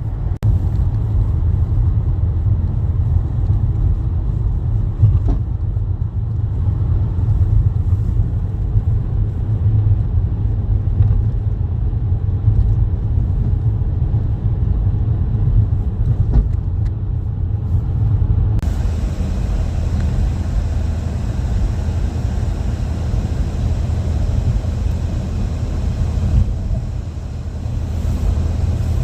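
Steady low road rumble of a vehicle driving, heard from inside the cabin. About two-thirds of the way through, a steady hiss suddenly joins it.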